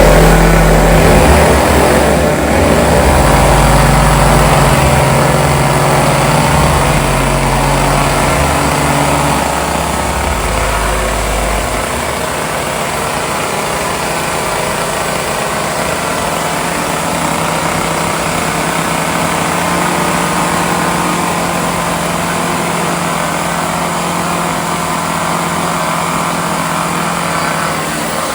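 Three two-stroke chainsaws running at idle while being juggled, their engines making a steady, loud buzz that shifts pitch a little partway through.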